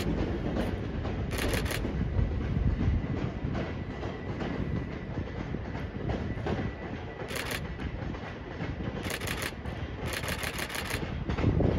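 Southeastern Electrostar electric multiple unit pulling away, its wheels clicking over the points and rail joints in several quick groups, with a steady rumble underneath.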